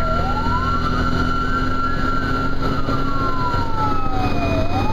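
Fire engine siren wailing in a slow rise and fall, climbing for about two seconds, sinking back down, then starting to climb again near the end, with a steady high tone alongside, over the truck's engine running.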